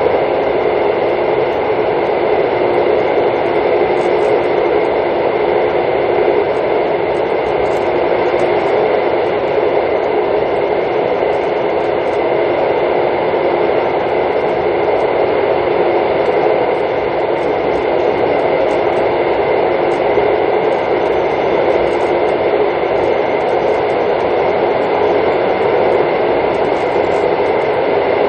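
Steady running noise of a Mugunghwa-ho passenger train heard from inside the carriage while it travels at speed, an even rumble and rush with a thin, steady high whine over it.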